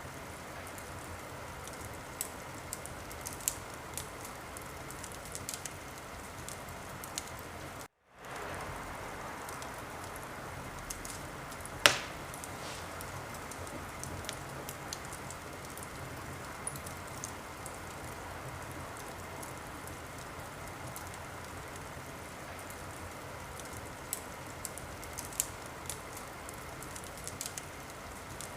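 Wood fire crackling in a fireplace: a steady hiss with scattered small pops and one loud, sharp crack about twelve seconds in. The sound cuts out for a moment about eight seconds in.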